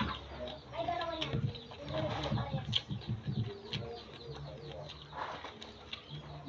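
Close-up chewing and mouth noises of a man eating raw okra and rice by hand, with clusters of soft crunching clicks. Birds call now and then in the background.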